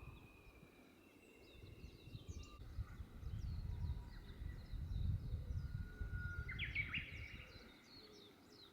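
Several small birds chirping and calling in quick, short notes, over a low, uneven rumble.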